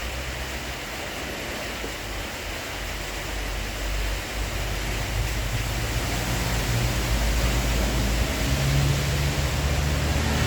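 Steady rushing noise of storm wind, with low rumbling gusts on the microphone that grow louder from about four seconds in.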